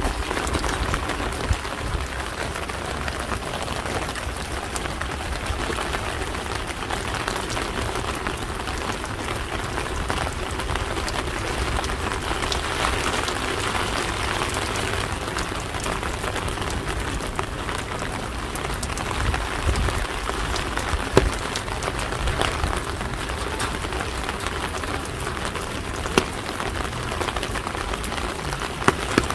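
Steady rain falling on hard surfaces: an even hiss full of small drop taps, with a few louder single taps in the second half.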